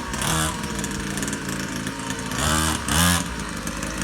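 Small 50cc dirt bike engine running, with brief revs where the pitch climbs and the sound gets louder, once right at the start and again about two and a half to three seconds in, settling back to a steady lower note between them.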